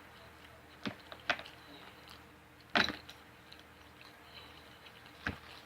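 Close-up eating sounds at a meal: four short clicks and smacks, the loudest and longest a little before halfway.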